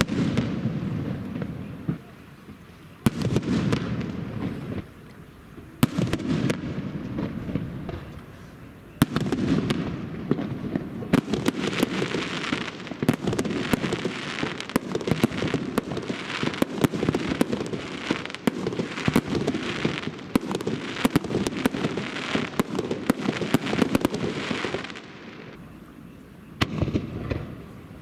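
Fireworks display: single shell bursts every few seconds at first, then a dense barrage of bangs and crackling from about nine seconds in, dying down near the end.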